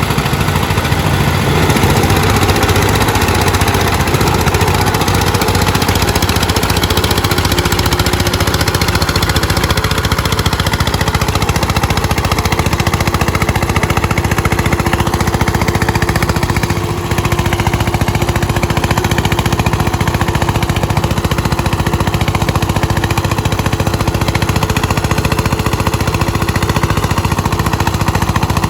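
Eicher 241 tractor single-cylinder diesel engines running hard with a rapid, steady pounding beat, pulling under heavy load in a tug-of-war.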